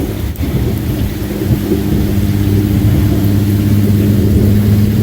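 Steady rain falling, with a long low roll of thunder that builds and rumbles on under it.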